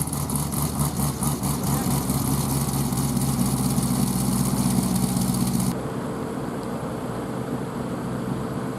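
A car engine runs close by at steady revs with a low, even rumble. About six seconds in, the sound cuts abruptly to quieter street noise with a faint steady hum.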